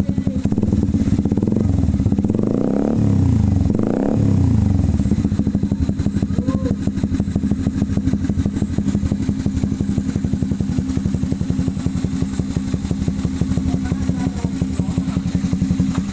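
Honda CB150R single-cylinder engine running through an SC Project-style aftermarket exhaust: idling with an even beat, revved twice in quick blips a few seconds in, then settling back to a steady idle.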